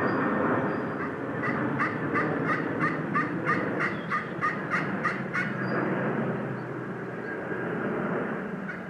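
A wild turkey yelp series: about a dozen short, evenly spaced yelps at roughly three a second, over a steady rushing background noise.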